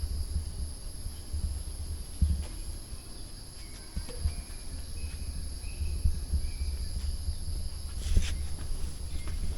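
A steady, high-pitched drone of jungle insects, with a low rumble underneath. A few short, high chirps come in the middle, and there is a sharp knock about eight seconds in.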